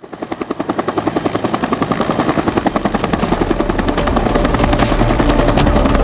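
UH-1 Huey helicopter, its two-bladed main rotor beating in a fast, even pulse of about ten beats a second, growing steadily louder.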